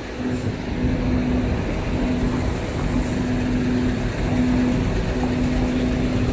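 An engine running: a steady low rumble with a pitched droning hum that drops out briefly every second or so.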